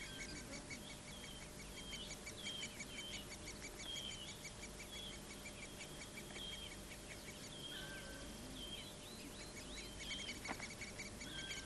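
Faint bird calls: a fast, even ticking chatter with short whistled notes over it, repeated every half second or so. One sharp click comes about ten and a half seconds in.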